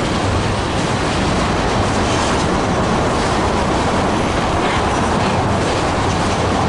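Freight train cars rolling past in a steady rumble of wheels on rail, with occasional wheel clacks over rail joints.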